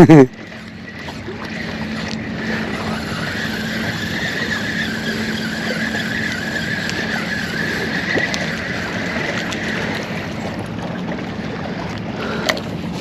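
Boat's electric trolling motor running steadily, a low hum with a higher wavering whine over water and wind hiss, growing louder over the first couple of seconds as it is turned up.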